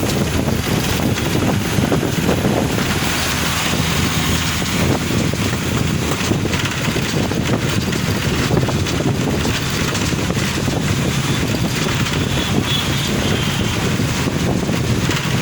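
Steady rushing noise of a car driving on wet roads in rain.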